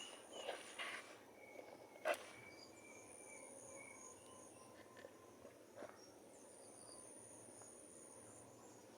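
Faint outdoor ambience of insects trilling steadily in a high pitch, with a few faint chirps and two soft clicks, about two seconds in and near six seconds.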